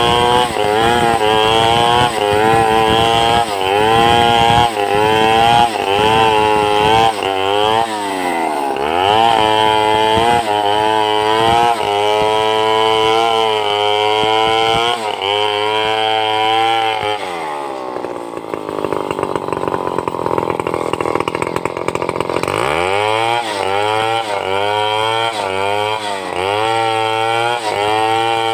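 Two-stroke chainsaw running under load while ripping a log into boards, its engine pitch wavering up and down about once a second as the chain bites. About two-thirds of the way through it sinks to a lower, rougher note for several seconds, then climbs back.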